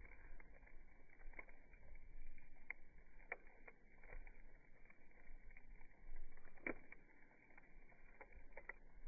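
Campfire crackling: scattered sharp pops of burning wood over a faint low rumble, the loudest pop about two-thirds of the way in.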